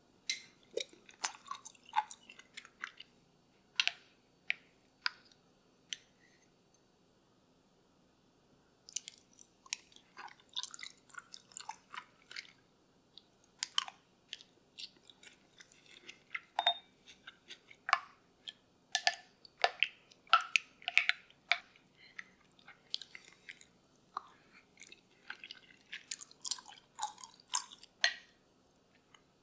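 Close-up eating sounds: irregular crisp bites, crunches and small clicks as food is chewed. They come in clusters, with a pause of a few seconds about a third of the way in. A faint steady hum runs underneath.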